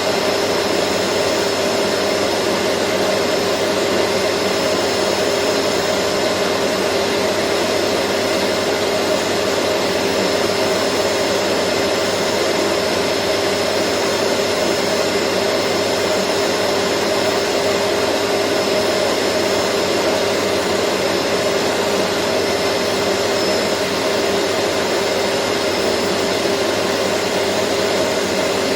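Vacuum cleaner running steadily: a dense, unchanging whoosh of rushing air with a constant motor hum and a faint high whine.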